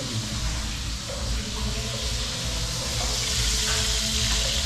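Fish frying in hot oil in a pan: a steady sizzle that grows a little louder from about three seconds in.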